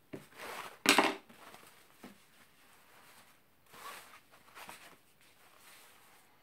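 Fabric pieces being handled and shuffled: a few short rustles and crinkles, the loudest about a second in.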